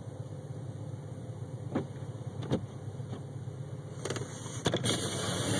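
A vehicle engine runs steadily with a low hum. There are a few sharp clicks and knocks, then a brief hiss near the end.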